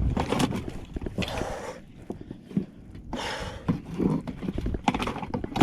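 An angler breathing hard, with two long breaths about two seconds apart, over scattered knocks and thuds against a plastic kayak as he hauls a large Spanish mackerel aboard.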